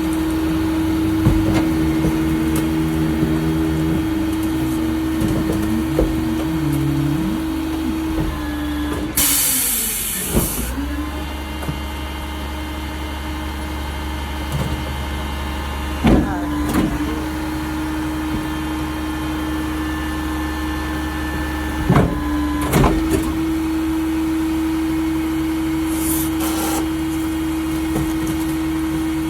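Mack RD garbage truck with a Leach 2R-II rear packer running steadily, its engine note sagging in pitch about eight to ten seconds in. A loud burst of air hiss comes around nine seconds in, sharp metal clanks around sixteen and twenty-two seconds in, and a shorter hiss near the end.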